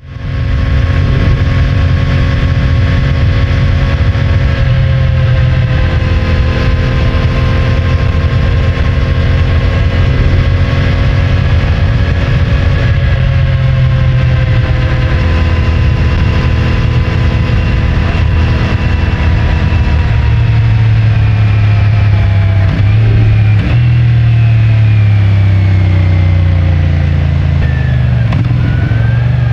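CFMoto 450MT's 449 cc parallel-twin engine through its stock exhaust, running under way with the throttle opening and easing off several times. The revs wind down over the last several seconds.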